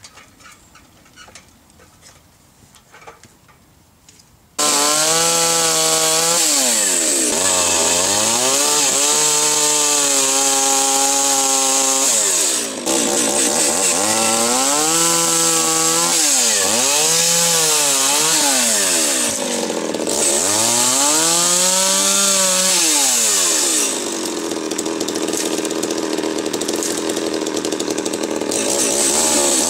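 Echo two-stroke chainsaw running and cutting wood, its engine pitch repeatedly dropping under load and rising again as it revs. The saw starts suddenly about four and a half seconds in; before that there are only light clicks.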